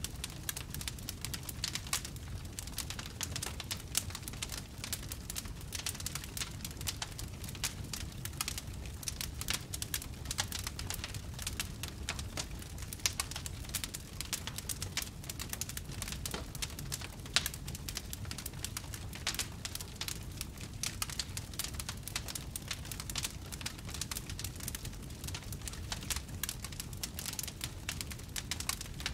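Wood fire crackling in a fireplace: a steady stream of small, irregular crackles and pops over a low rumble.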